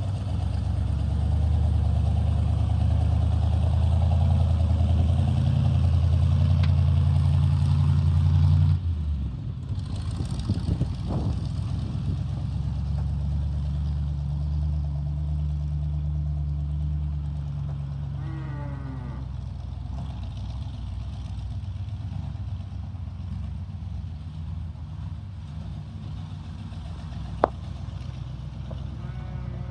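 1974 GMC 6500 truck engine running, held at a raised speed and then dropping back to a steady idle about nine seconds in. A brief wavering squeal comes partway through, and a single sharp click near the end.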